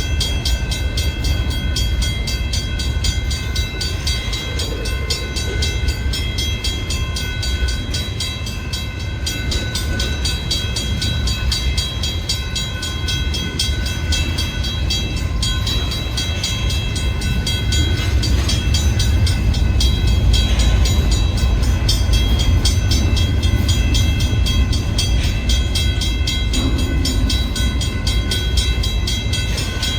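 Long manifest freight train rolling past: a steady low rumble of wheels on rail, with several thin, steady high metallic squealing tones above it and a fine regular ticking.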